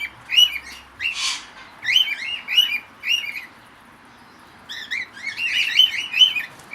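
Aviary birds chirping: a run of short rising-and-falling notes at about three a second, pausing briefly past the middle and then starting again. A short rustle about a second in.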